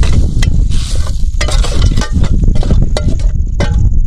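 A metal utensil clinking and scraping against a cooking pot in a string of short, ringing clicks, over a steady low rumble.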